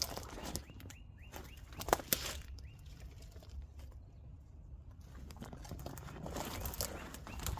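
A couple of sharp clicks about two seconds in, over a low rumble, with faint bird chirps.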